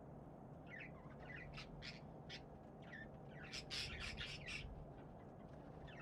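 Budgerigars calling: a run of short chirps and squawks starting about a second in, with a quick, louder cluster in the middle.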